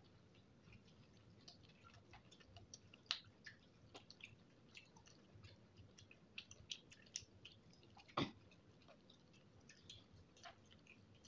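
Close-up chewing: a person eating food by hand, with soft, irregular wet mouth clicks and smacks, and a louder click about three seconds in and another about eight seconds in.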